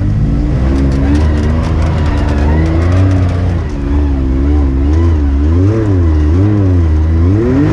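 Side-by-side UTV engine running hard, fairly steady at first, then revving up and down in quick swells through the second half as the throttle is worked.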